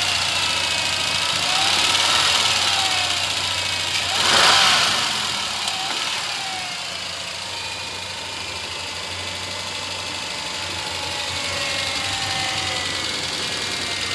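1998 Ford Ranger's 4.0-liter V6 being revved up and dropping back, the biggest rev about four seconds in, then settling to a steadier run. The engine has a steady chopping, ticking knock whose source inside the engine the seller can't place.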